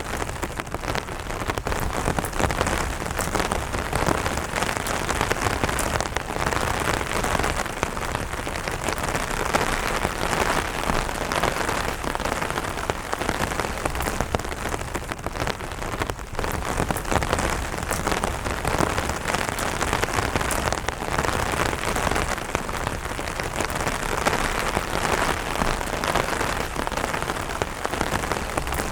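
Steady light rain drumming on an umbrella canopy, a dense patter of many small drop impacts that goes on without a break.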